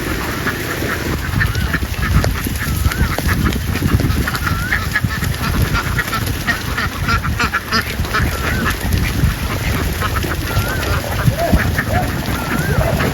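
A large flock of domestic ducks calling and quacking, with many short wavy calls overlapping throughout. Underneath is a steady low rumble and many small knocks.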